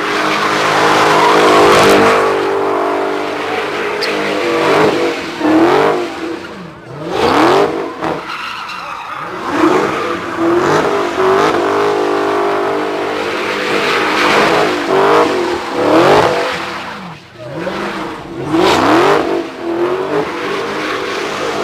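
A car's engine revving up and down over and over, with tyres squealing through a burnout or drift.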